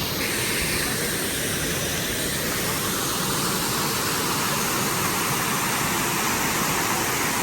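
Steady, loud rushing of a waterfall.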